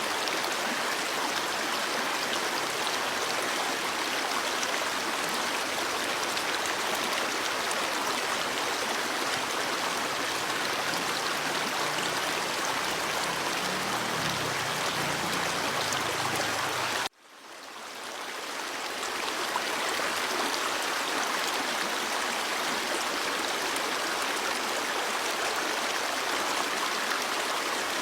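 Stream water flowing steadily. About two-thirds of the way through, the sound cuts out abruptly and fades back in over a couple of seconds, like a loop point in the recording.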